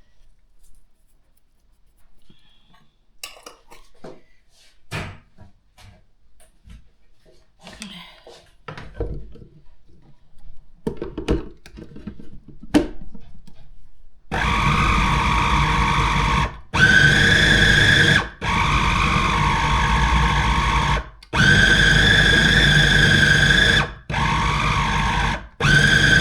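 A few light clicks and knocks of handling, then about halfway through an electric blender starts, running in a series of bursts of a few seconds each with brief breaks, its pitch shifting from burst to burst as it purées chicken mince with onion and cottage cheese.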